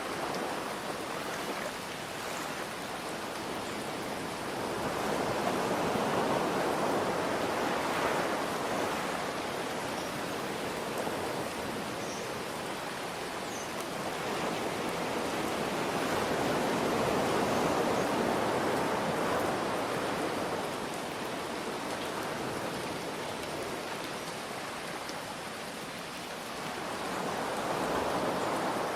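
Ocean surf washing in over a steady hiss of rain, the waves swelling and fading about every ten seconds, three times.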